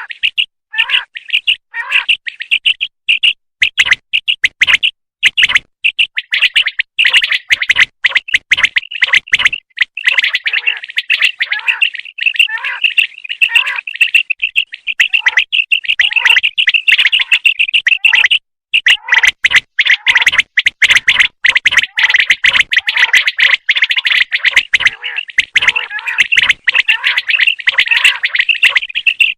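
Common quails calling: a loud, dense run of rapid high chirping calls, many overlapping, with short clicks among them and a brief break about 18 seconds in.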